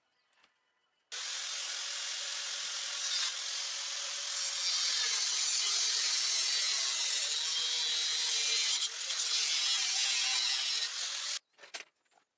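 A handheld grinder-type power tool working on steel: it starts about a second in, runs steadily for about ten seconds with its motor pitch dipping and recovering under load, then cuts off suddenly near the end.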